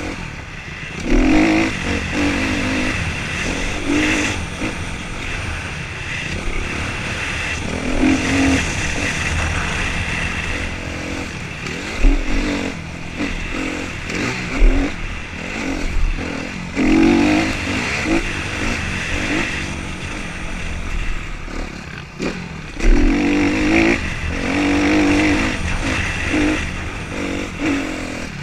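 Motocross motorcycles revving hard and passing one after another, their engine pitch climbing and dropping as the riders open and close the throttle, with several loud swells as bikes come close.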